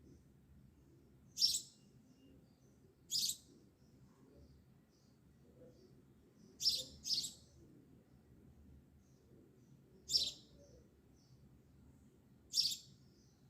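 A bird chirping: six short, high chirps a few seconds apart, two of them in quick succession near the middle.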